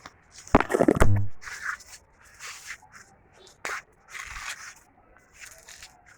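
Corn plant husks and leaves crackling and crunching as the ears are handled during harvest, loudest in a burst about half a second in, then scattered short rustles.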